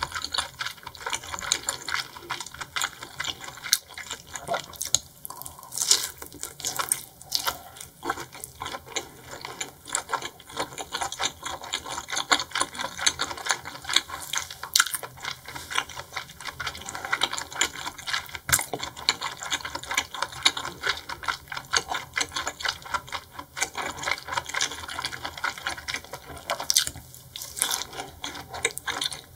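Close-miked chewing and wet mouth sounds of someone eating raw seafood: a dense, irregular stream of sticky clicks and smacks with no pauses.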